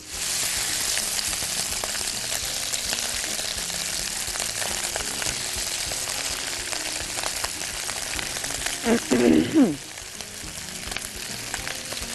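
Crumbled sausage meat hitting hot ghee in a wok and frying with a steady sizzle that starts suddenly. A short louder sound with falling pitch cuts in about nine seconds in.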